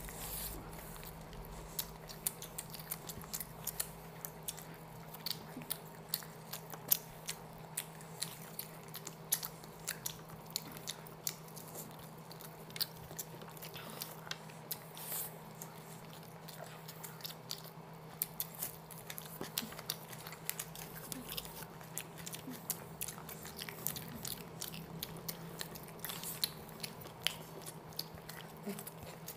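Close-up eating sounds of two people eating chicken biryani and tangdi kabab with their hands: chewing, biting and many short sharp clicks and smacks. A steady low hum runs underneath.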